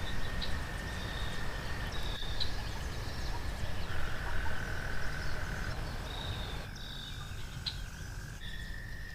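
Rural animal chorus: a steady high-pitched drone that shifts pitch a few times, with short higher calls repeating about once a second, over a low rumble.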